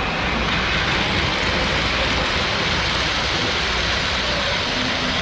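Steady din of a crowded exhibition hall: many people moving and talking at once, blending into an even roar with no single voice standing out.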